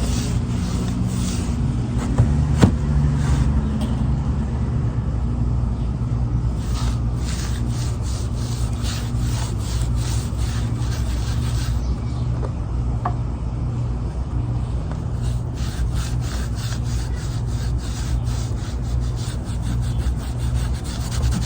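Stain being rubbed into a wooden bench in quick back-and-forth strokes, a dry scratchy rubbing in runs with brief pauses, over a steady low hum.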